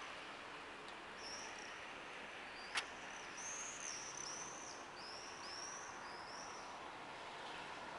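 A bird calling in a quick series of short, high, arched chirps over the steady hum of a city after rain, with one sharp click about three seconds in.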